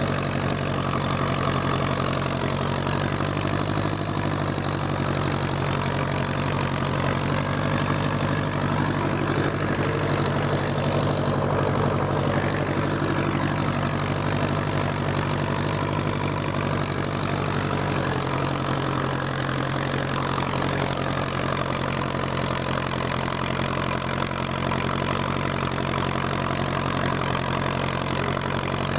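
1957 Ferguson FE35 tractor's four-cylinder petrol/TVO engine running steadily as the tractor drives along, its note shifting slightly about two-thirds of the way through.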